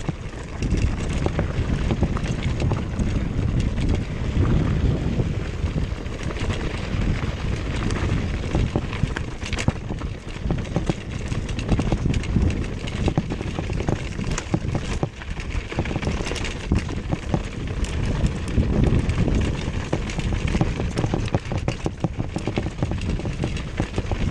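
Wind buffeting the microphone of a fast-moving camera, with a constant low rumble and many quick rattles and knocks from the ride over rough ground.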